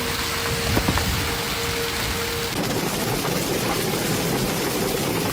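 Heavy rain pouring steadily, with low thunder rumbling underneath.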